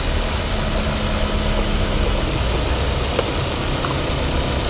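Four-cylinder car engine idling steadily, heard close up in the open engine bay.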